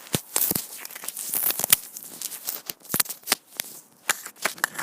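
Microphone being handled close up: irregular clicks, taps and rustling scrapes, with no engine running.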